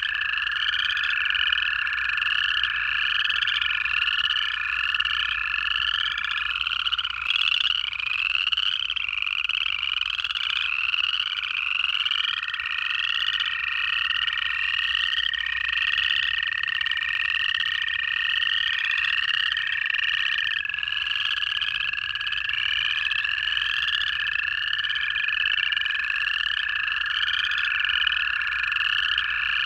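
Frog chorus dominated by upland chorus frogs, many overlapping ascending trills repeating without pause. Long, steady, even-pitched trills of American toads run beneath. One toad trill stops about six seconds in, and others start around twelve seconds in and run on.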